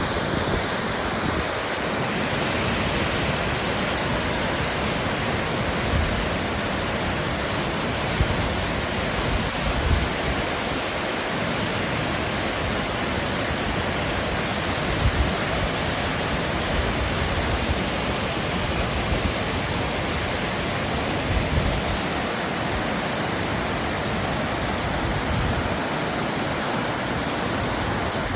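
Large waterfall pouring down, a steady loud rush of falling water, with occasional low rumbles of wind on the microphone.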